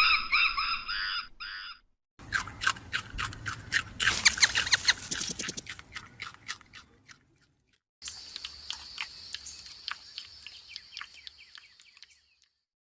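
Bird calls in three short clips split by silent gaps. First comes a run of pitched calls that stops about two seconds in. Then a dense stretch of quick chirps and clicks, then a high steady tone with scattered clicks that stops near the end.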